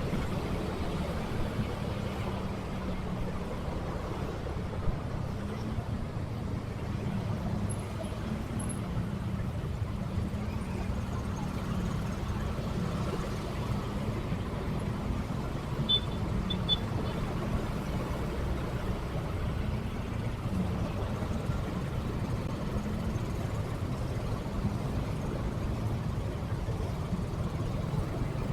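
Motorcycle riding through city traffic, its engine tone rising and falling with the throttle over a steady low road rumble. A few short high beeps come in about halfway through.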